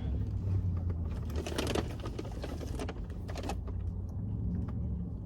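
Steady low rumble of a car cabin on the move, with two short bursts of crackly rustling about a second in and again about three seconds in.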